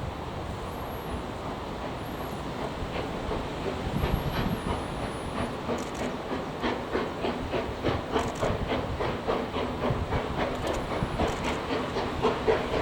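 Steam train running, with a steady rumble and a regular beat of about three strokes a second that comes in and strengthens from about four seconds in.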